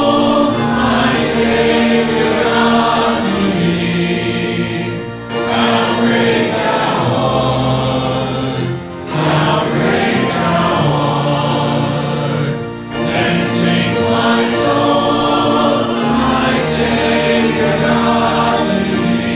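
A group of voices singing a hymn with instrumental accompaniment. The lines are held out, with short pauses between phrases about every four seconds.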